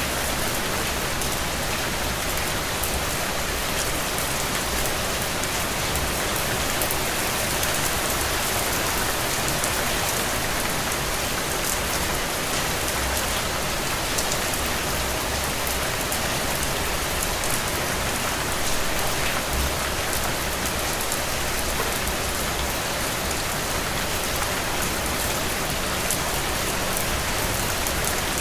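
Steady rain falling, with scattered individual drop ticks over an even hiss.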